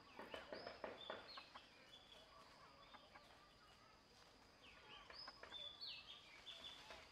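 Faint bird chirps in short high notes that slide downward, in two clusters, over a thin steady high whine, with soft clicks and rustles.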